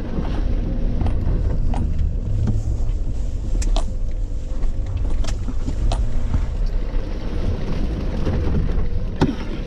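2012 Jeep Wrangler JK driving hard through mud: steady engine and drivetrain noise under load, with scattered sharp knocks and clicks.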